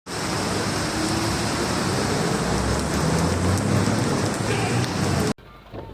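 Heavy rain pouring down, a dense steady hiss that cuts off suddenly about five seconds in.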